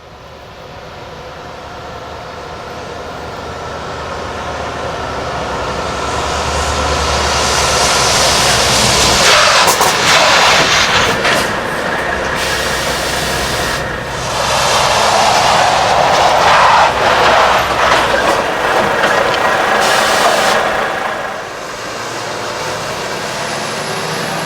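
Volvo truck driving up, getting steadily louder, then braking hard: two long stretches of loud hissing, scrubbing noise, the second ending about three seconds before the end, after which the truck runs more steadily.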